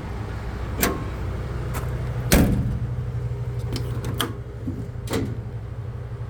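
Gas Ford F450 bucket truck engine idling with a steady low hum, with several short knocks and clunks over it, the loudest about two and a half seconds in.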